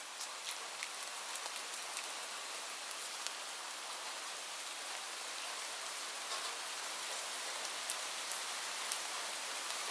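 Steady rain falling, an even hiss with scattered sharp ticks of individual drops, a few of them louder near the end.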